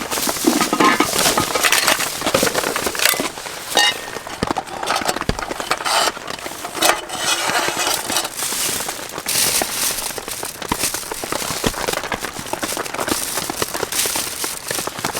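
Heavy rain falling on the tent fabric overhead: a dense hiss of countless small drop impacts.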